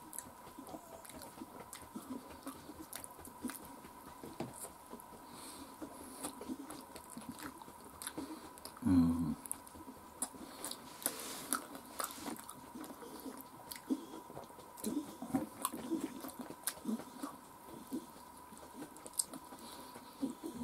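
A man chewing and biting chicken pieces eaten by hand, with many small wet clicks and smacks close to the microphone. There is a short voiced grunt about nine seconds in, and a faint steady high hum runs under it all.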